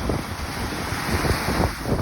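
Wind buffeting the microphone over the rush of breaking surf, with a stronger gust near the end.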